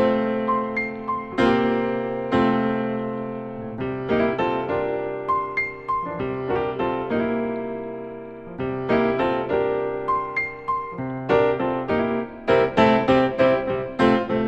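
Background piano music: a slow, gentle melody of single struck notes and chords that ring and fade, the notes coming more quickly near the end.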